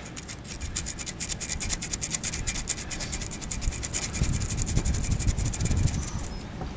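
Rapid back-and-forth scraping strokes of an abrasive on metal, several a second, fading out near the end: cleaning up the engine's ignition points.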